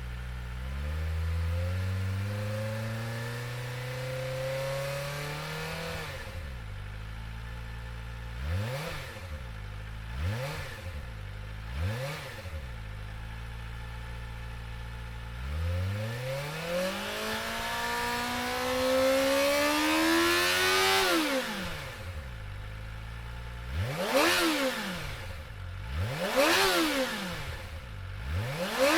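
Kawasaki Ninja ZX-25R's 250 cc inline-four exhaust, revved while stationary. It idles, climbs slowly to high revs, drops, and takes three quick throttle blips, then makes a second long climb and three more sharp blips.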